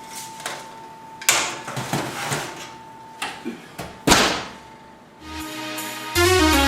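Two sharp knocks a few seconds apart as the tray of wings is handled at the oven, then electronic background music starts about five seconds in.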